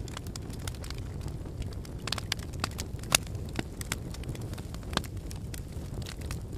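Wood fire in a fireplace burning with a steady low rumble and irregular sharp crackles and pops, the loudest about three seconds in.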